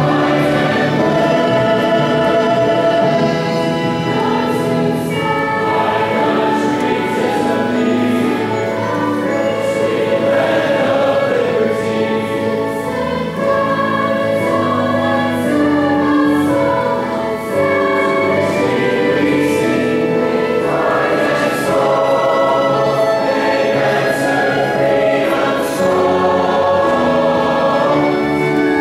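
A choir singing a song, voices holding long notes without a break.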